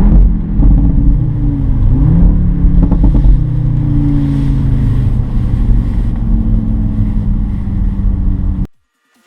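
Audi RS3's 2.5 TFSI turbocharged five-cylinder engine running hard under load. Its pitch dips and climbs again about two seconds in, then the sound cuts off suddenly near the end.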